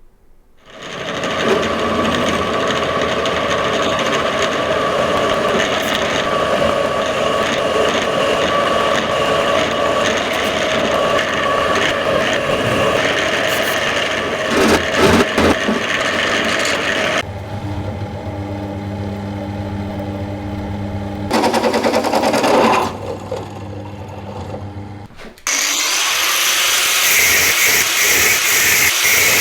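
Workshop power tools running in several short takes, each starting or changing abruptly: a steady machine noise first, then a lower-pitched tool, then a hissing one near the end.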